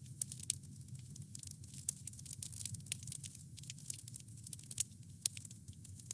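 Wood campfire crackling: a steady low rumble of burning with frequent sharp snaps and pops of the wood, the loudest about two seconds in and near the end.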